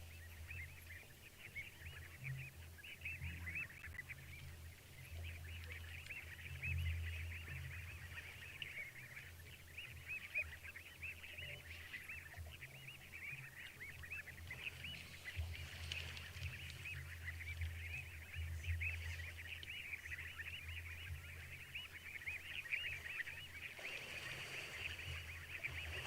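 A dense chorus of many frogs calling at once, countless short overlapping calls without pause, over a low hum.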